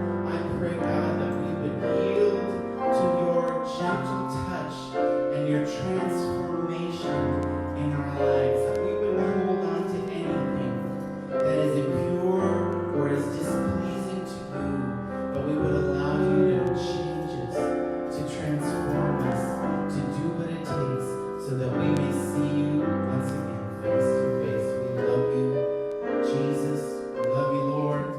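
Worship music led by piano and keyboard, playing a continuous run of held chords.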